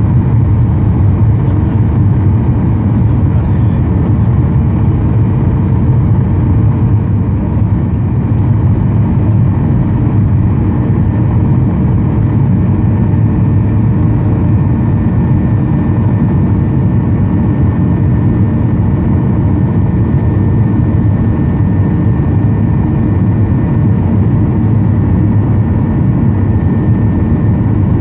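Steady cabin noise inside a Boeing 737-800: an even, loud rumble of engines and airflow. A faint high steady whine joins it about halfway through.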